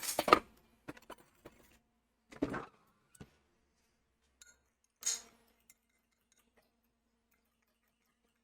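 Kitchen dishes and utensils clinking and knocking: a loud clatter at the start, then a few smaller knocks and clinks over the next five seconds before it goes quiet.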